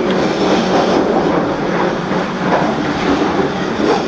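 Steady running noise of a passenger train on the move, heard from inside the carriage: an even rumble of wheels on the rails.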